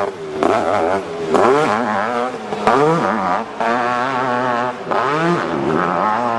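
Hill climb motorcycle engine revving hard, the throttle chopped and reopened several times so the pitch drops and climbs again in surges.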